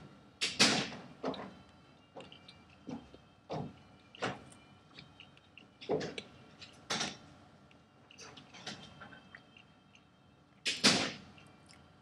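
Crunching and chewing of a crisp biscuit close to the microphone: irregular crackly crunches, the loudest near the start and again near the end.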